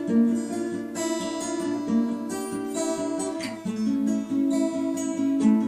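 Instrumental break of a song: acoustic guitar strummed and picked in a steady rhythm, with no singing.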